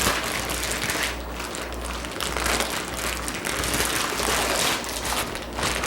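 Plastic zipper bag crinkling and rustling in irregular bursts as the chicken breasts are worked around in the marinade inside it to coat them.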